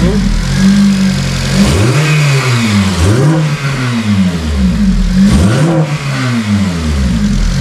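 Honda Civic Type R's 2.0-litre K20 four-cylinder engine revved up and down several times, the pitch rising and falling in repeated throttle blips. It is being run after a freshly fitted fuel rail to check for fuel leaks.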